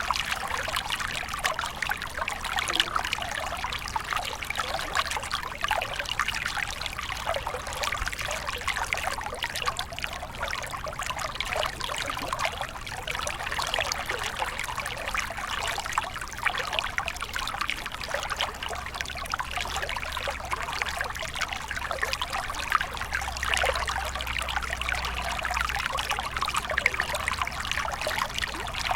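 Stream of water flowing steadily, a continuous trickling and splashing.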